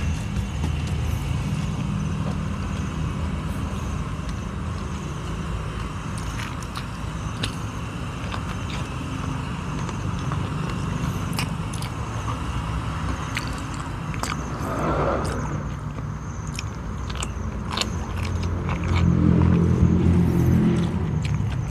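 Close-up eating sounds: biting and chewing of raw vegetables dipped in sauce, with sharp crunchy clicks, over a steady low rumble that swells near the end.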